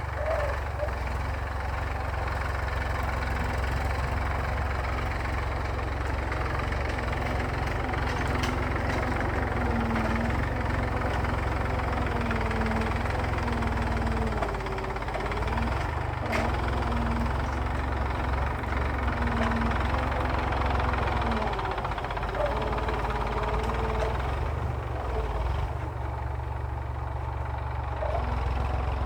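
Massey Ferguson tractor's diesel engine running steadily while pulling a plough, a low rumble with a fainter higher note that wavers slightly up and down.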